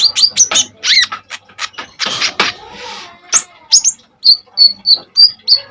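Kolibri ninja (konin) sunbird singing hard: a rapid run of sharp, high chirps and quick down-slurred notes, with a harsh rasping burst about two seconds in and a string of short, even piping notes near the end.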